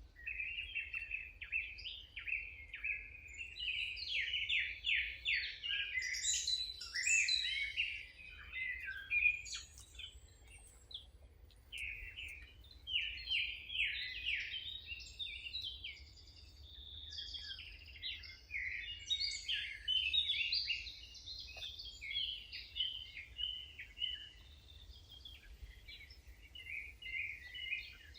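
Songbirds singing: a continuous run of quick, high chirps and trills, sometimes overlapping.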